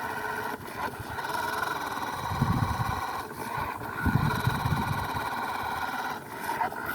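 Toy-grade RC car's small electric motor and gearbox whining steadily at full throttle in first gear as it strains to dig out of sand, with a few short low rumbles about two and a half and four seconds in.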